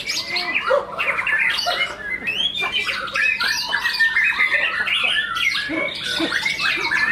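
Caged white-rumped shama (murai batu) singing in contest, an unbroken stream of fast chirps, whistles and scratchy notes.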